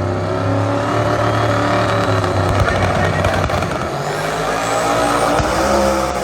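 Drag race cars' engines running hard on the strip, a loud, continuous engine sound with a rising whine about halfway through.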